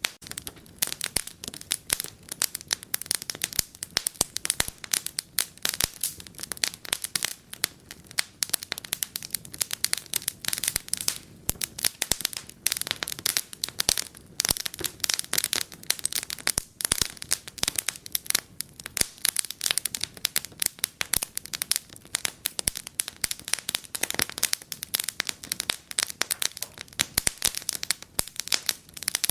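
Wood fire crackling in a fireplace: a dense, irregular stream of sharp pops and snaps, several a second, with no break.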